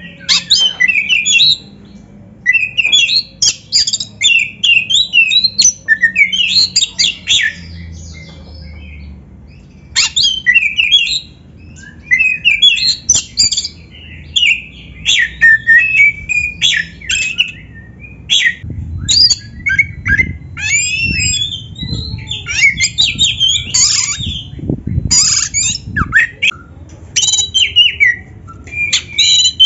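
Oriental magpie-robin (kacer) singing in loud, rapid bursts of varied whistles and harsh, chattering notes, with short pauses between phrases.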